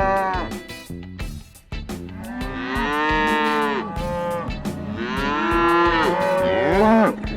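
Cattle mooing: long drawn-out calls that rise and then fall in pitch, with two or more animals calling over each other in the second half.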